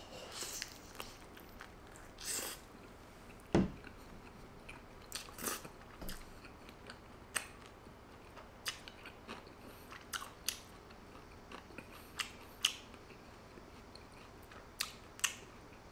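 Close-up mouth sounds of a man biting into and chewing a bread-wrapped hot dog: soft, irregular wet clicks and crackles. A single low thump about three and a half seconds in.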